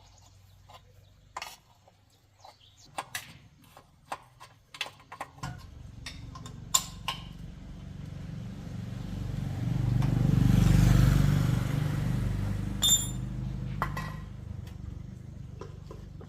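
A series of light clicks and knocks, then about five seconds in a motorcycle engine starts and runs, growing louder to a peak about halfway through before easing off again.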